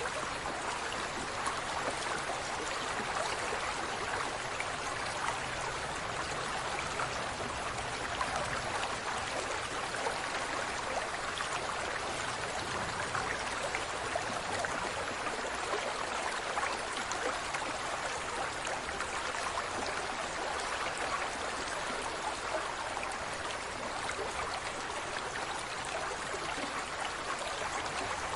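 Steady rush of running water, like a stream, with many small splashing ticks and no change in level.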